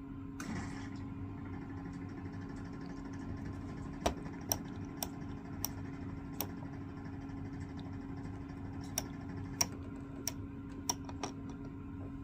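A steady machine hum, with a brief hiss about half a second in and about ten sharp, irregularly spaced clicks in the second half.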